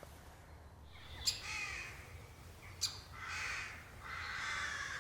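Harsh, rasping bird calls: three drawn-out calls, each under a second long, with two sharp clicks about a second and a half apart near the start.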